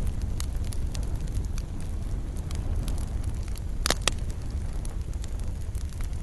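Wood campfire burning, with a steady low rumble and scattered crackles. A louder sharp pop comes just under four seconds in, followed closely by a smaller one.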